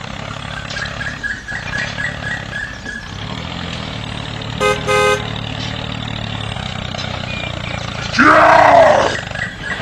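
A small motor running with a steady low hum, and a horn tooting twice in quick succession about halfway through. Near the end comes a loud, brief cry with a sweeping pitch.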